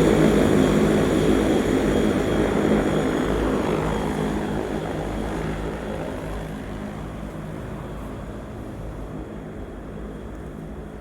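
Rolls-Royce Dart turboprop engines of a YS-11 aircraft going past: a loud engine sound with a high whine that drops in pitch about three to four seconds in, then fades steadily as the aircraft moves away.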